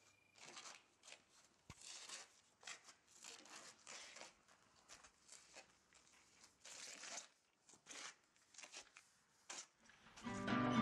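Faint footsteps scuffing on paving stones: a series of short, uneven scrapes. Acoustic guitar music comes in near the end.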